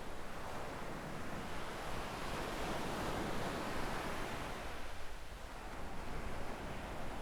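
Small waves washing onto a sandy beach: a wash of surf that builds and peaks a few seconds in, eases off, then builds again, with a low rumble of wind on the microphone underneath.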